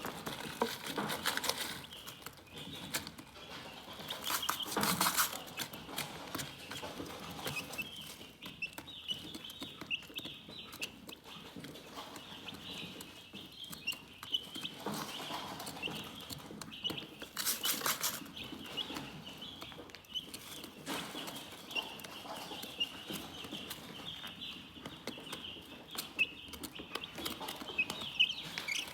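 Chickens clucking and chirping, with a near-continuous run of short, high chirps from about eight seconds in. A few brief rustling noises stand out, near the start, about five seconds in and near eighteen seconds.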